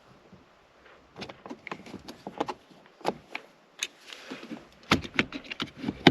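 Hand tools and small car interior parts being handled: a quiet first second, then a run of irregular sharp clicks and knocks, loudest near the end.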